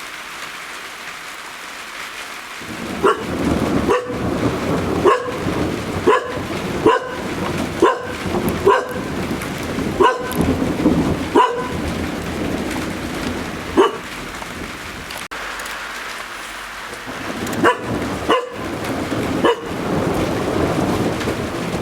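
Rain falling steadily while a dog barks about a dozen times, roughly once a second, with a pause before a last few barks. Under it a low rumble of thunder swells and fades.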